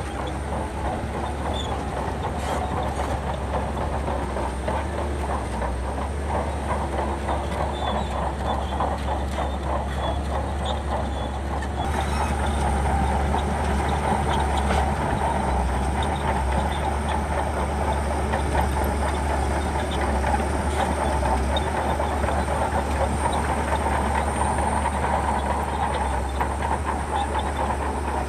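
Shantui crawler bulldozer at work: its diesel engine runs steadily under a dense clatter of steel tracks, growing a little louder about twelve seconds in.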